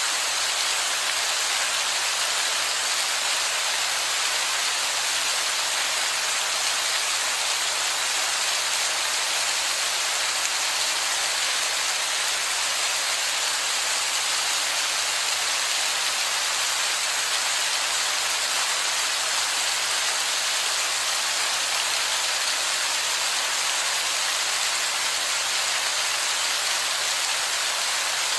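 Heavy rain falling and splashing on wet rock, a steady even hiss that does not change.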